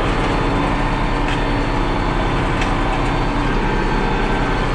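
Farm tractor engine running steadily under load, pulling a round baler in hay.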